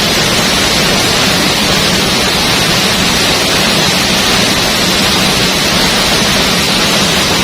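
Waterfall rushing: a loud, steady roar of falling water that drowns out everything else.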